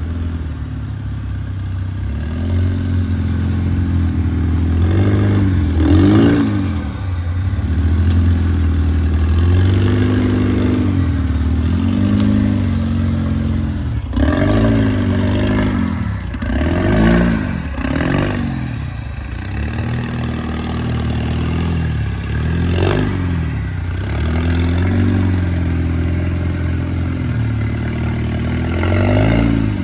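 Off-road truck engine running steadily and revving up and down in repeated surges as it crawls over rocks, with a few sharp clunks along the way.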